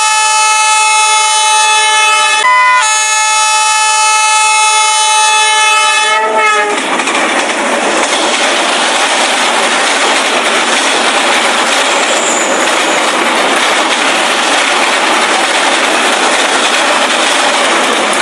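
Train horn sounding a long blast that breaks off briefly about two and a half seconds in and stops about six seconds in, followed by the steady noise of the train running along the track.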